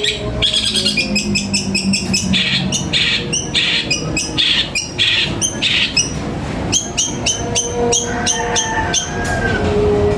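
Songbirds singing: fast runs of sharp repeated chips and trills, with harsher buzzy notes a couple of seconds in, in a recording of birdsong meant for tutoring captive birds.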